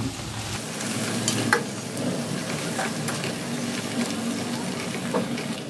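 Chopped spinach and potatoes sizzling in oil in a stainless steel kadhai as a metal spatula stirs them, with a few light clicks of the spatula against the pan.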